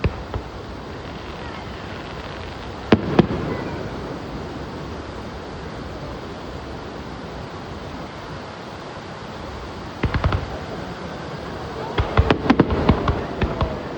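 Fireworks going off: a bang, then two bangs close together about three seconds in. Later come clusters of rapid crackling bursts, one about ten seconds in and a longer, denser run near the end, over a steady background hiss.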